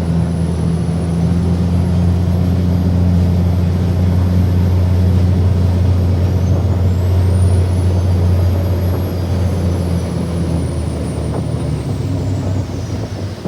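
Passenger ferry's engines running under way: a loud, steady low drone. A faint high whine rises about six seconds in and slowly falls away near the end.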